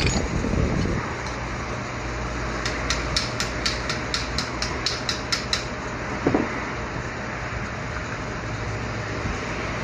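AC motor running with a steady hum, broken for about three seconds by a quick run of about a dozen sharp, evenly spaced ticks, about four a second, then one short knock with a brief ring. The ticking is the kind of noise shown as the motor's sound problem.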